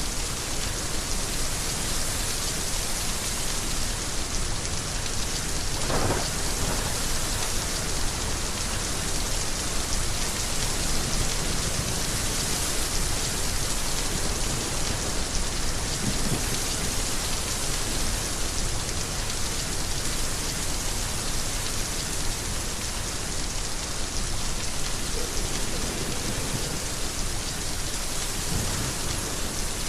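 Heavy rain falling steadily in a dense, even hiss. A short sharper sound comes about six seconds in, and a low rumble of thunder comes near the end.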